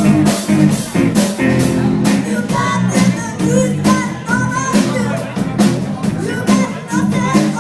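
Live rock band playing: drum kit keeping a steady beat under guitar chords, with a voice singing the melody.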